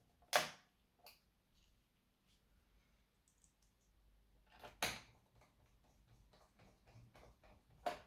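Three sharp plastic-and-metal clicks, about a second in, near five seconds and near the end, with faint taps and ticks between them: a laptop and small tools being handled.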